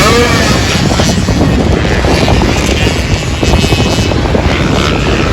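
Motocross dirt bike engine running loud, its pitch shifting a little up and down.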